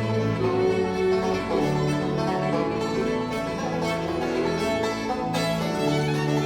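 Bluegrass band playing an instrumental passage: banjo and guitar picking with fiddle over long held low notes from the church pipe organ.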